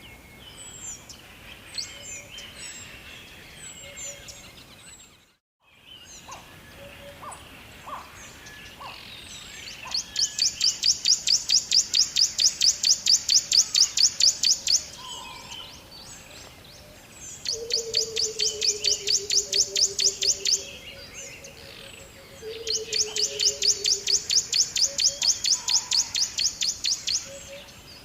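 Birdsong: scattered short chirps, then three long, loud trills of rapid, evenly repeated high notes, each lasting a few seconds. A lower whistle slides downward alongside the second and third trills, and the sound drops almost to silence for a moment about five seconds in.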